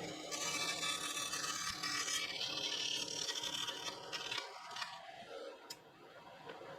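Hand tool scraping across a wooden birdhouse roof piece, taking material off it. The scraping eases off about four seconds in.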